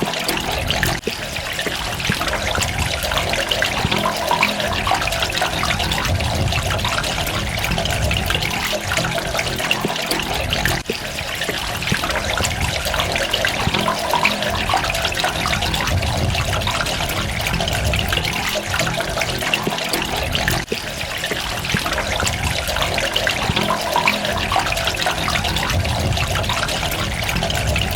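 Running water with a dense, continuous spatter of droplets, steady and without pauses.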